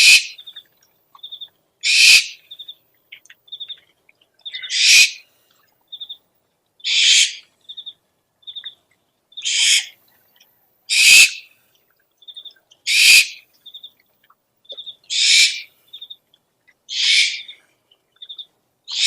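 An owl's harsh, hissing screech repeated about every two seconds, with short quick chittering trills of three or four notes between the screeches.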